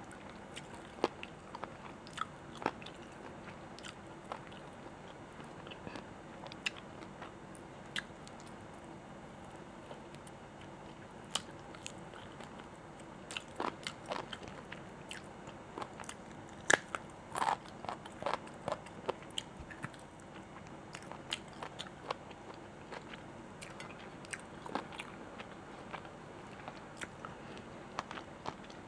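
Close-miked chewing and biting of food, with many scattered short wet clicks and crunches, busiest in the middle of the stretch.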